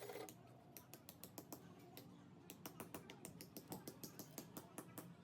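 A run of light, irregular clicks and taps, coming faster, several a second, from about halfway through.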